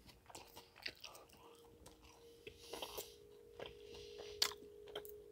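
Faint close-miked chewing of a mouthful of Supreme pizza: scattered soft wet mouth clicks and smacks, with one louder click about four and a half seconds in.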